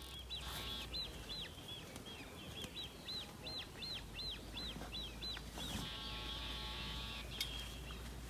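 A songbird singing a rapid run of high, arched whistled notes, about four a second, for around five seconds.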